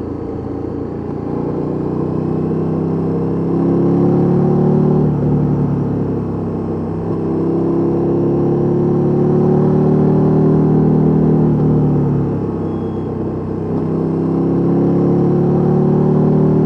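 KTM 1290 Super Duke R's V-twin engine through a Mivv MK3 exhaust, pulling in three long stretches: the pitch rises steadily in each and falls back twice in between.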